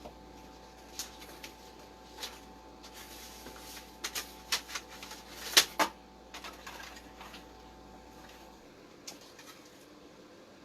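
Scattered clicks and knocks of objects being handled, busiest in the middle with one sharper knock, over a faint steady hum that cuts off about eight and a half seconds in.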